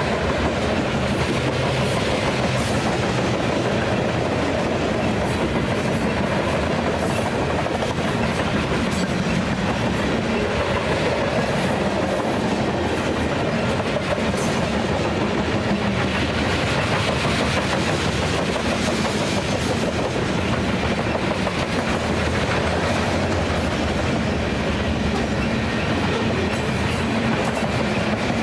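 Freight train's covered hopper cars rolling steadily past close by: continuous wheel-on-rail noise with occasional clicks.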